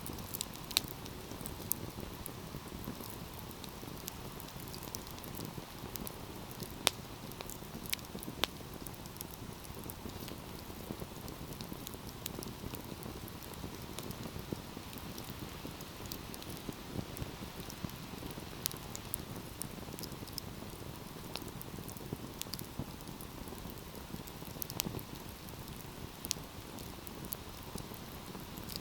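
Wood fire burning with a steady low rush of flame and scattered sharp crackles and pops, a few louder snaps among them.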